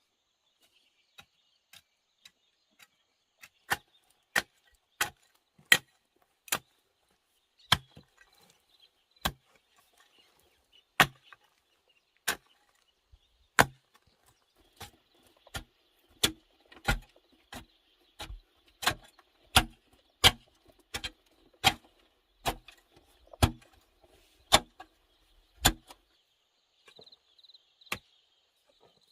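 Wood being chopped with a blade: a long series of sharp strikes, some with a dull thud. The strikes are spaced irregularly at first, then come more steadily, about one and a half a second, from about halfway through. Insects trill faintly in the background.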